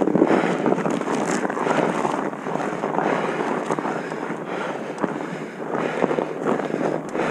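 Wind rushing over the microphone, a steady roaring noise that swells and eases.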